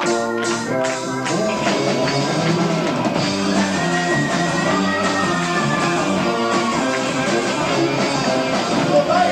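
Italian progressive rock band playing live, with drums and electric guitar over sustained keyboard chords, from an amateur 1994 tape recording of the concert. Held chords at the start give way to the full band.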